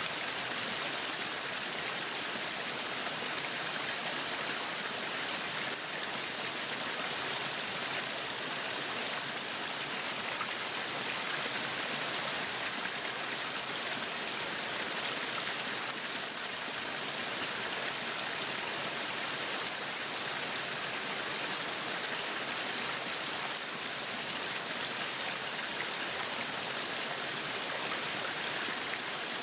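Meat sizzling on a yakiniku grill: a steady, even sizzling hiss.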